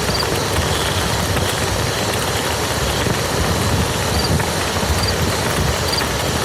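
Steady rain falling on a muddy field, a dense even patter of drops.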